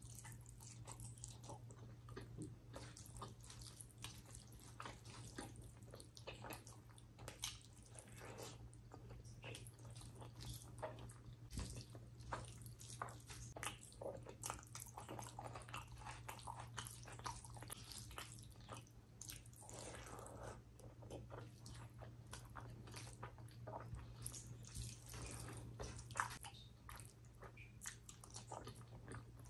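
Close-miked chewing and wet mouth sounds of someone eating soft chicken liver curry and gravy-soaked rice, with many small clicks and squelches as handfuls are eaten and the fingers work the rice. A steady low hum runs underneath.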